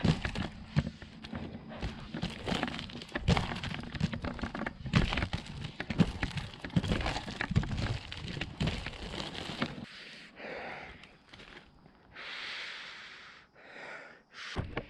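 Off-road inline skates with 125 mm wheels clunking and knocking irregularly as the skater steps on trail stairs, with cracking and crunching for about ten seconds; after that it goes much quieter.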